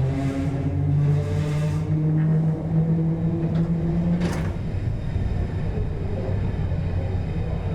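Sydney Trains red set electric train under way, heard from the driver's cab: a pitched motor hum rising slowly in pitch, a sharp click about four seconds in, then a steady running rumble.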